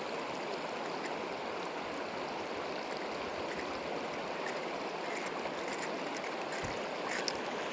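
Steady rush of river current flowing, with a faint click near the end.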